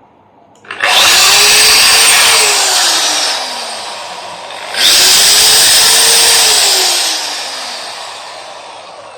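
Deli 13 mm 1050 W impact drill run twice: each time the motor spins up quickly to a loud, high whine, holds for a couple of seconds, then winds down with falling pitch as the trigger is released.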